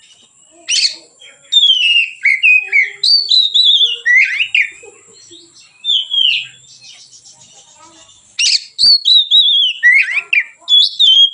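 Oriental magpie-robin singing loud, varied whistled phrases with quick gliding and warbling notes, in bursts with short pauses. It sings steadily and strongly from a little past the middle.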